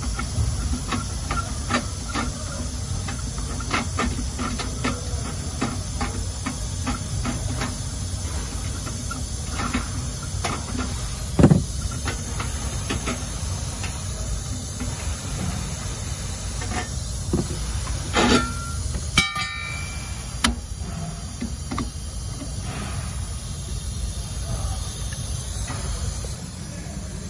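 Light clicks and knocks of parts and tools being handled, over a steady hiss. There is a sharper knock about eleven seconds in and a brief clatter with a short ring around eighteen to twenty seconds.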